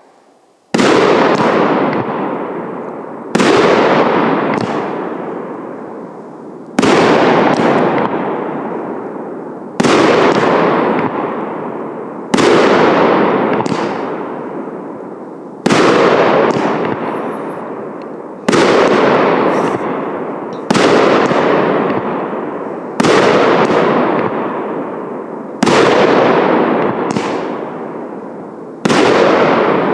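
A 25-shot 1.2-inch fireworks cake firing its shots one at a time, about eleven here, roughly every two and a half to three seconds. Each shot is a sudden burst that fades away over a couple of seconds.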